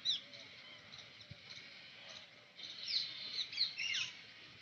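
Birds calling at a pond: short, sharply falling whistled calls, one right at the start and a burst of several about three seconds in, over a steady background of many distant birds chattering.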